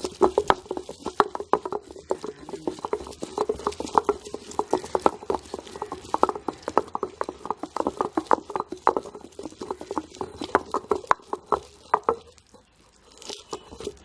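Ginger and garlic being crushed with a stone pestle: rapid, steady knocks, about three or four a second, that stop about twelve seconds in.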